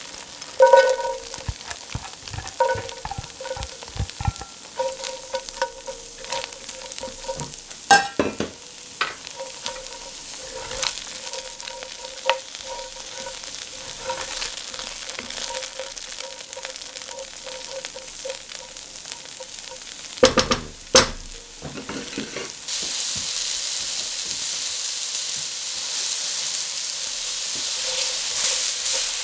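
Sliced onion and bell pepper frying in oil in a steel wok, sizzling, while a silicone spatula stirs and scrapes against the pan. A few loud knocks come near the middle, then the sizzle grows louder after the bell pepper pieces go in.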